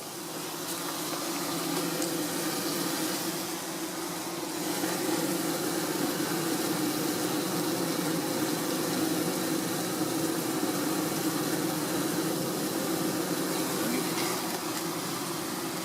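Honey bees buzzing steadily around an opened hive, a continuous hum.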